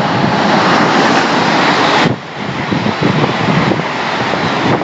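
Great Western Railway Intercity Express Train passing non-stop through the station at speed: a loud rush of wheel and air noise, dipping briefly about two seconds in, then going on with a rapid low clatter of wheels over the rails.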